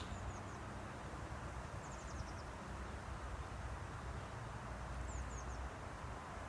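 Steady outdoor noise with a low hum, over which a small bird gives quick runs of short, high, falling chirps three times: near the start, about two seconds in, and about five seconds in.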